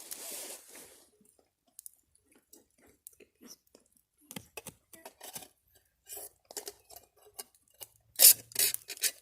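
Irregular short crunches and clicks from a cast-iron-toasted quesadilla being cut and eaten, with a louder cluster of crunches about eight seconds in.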